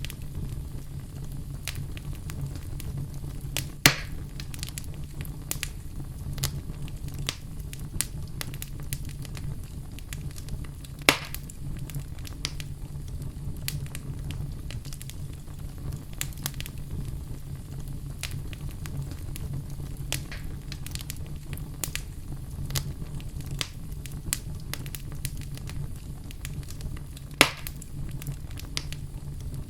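Wood fire burning in a fireplace: a steady low rumble of the flames under constant small crackles, with three louder pops as the wood snaps, a few seconds in, about ten seconds later, and near the end.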